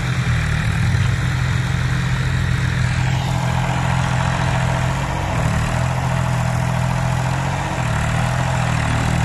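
Tractor diesel engine running steadily, its note shifting a little about five seconds in and again near eight seconds.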